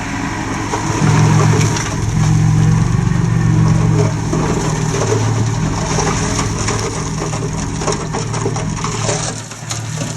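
Komatsu D20P bulldozer's diesel engine working under load, growing louder about a second in, with stone crunching and grinding as the blade pushes it.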